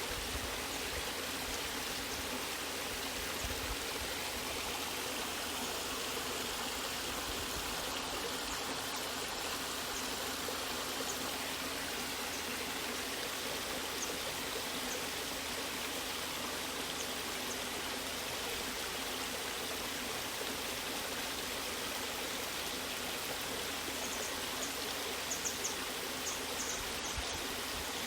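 Waterfall water rushing and splashing in a steady, unbroken wash of sound, with a few faint high ticks near the end.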